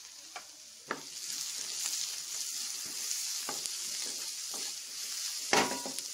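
Onions, green chillies and spices sizzling in hot oil in a metal pan as they are stirred with a spatula. The hiss swells about a second in, with a few light knocks of the spatula on the pan and a louder one about five and a half seconds in.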